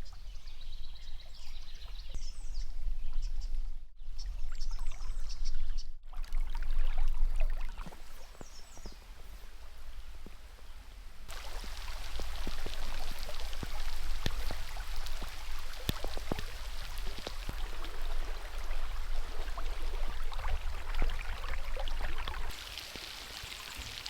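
Stream water running with rain falling. A few high chirping calls come in the first few seconds, and about eleven seconds in the sound switches abruptly to a dense patter of raindrops.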